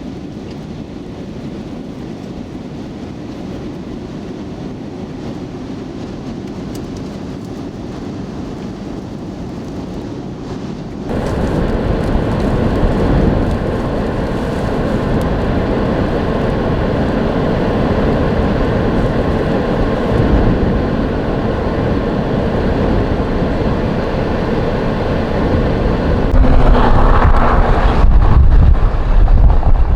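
Strong wind noise mixed with vehicle road noise, a steady rushing haze that jumps abruptly louder about a third of the way in and again near the end.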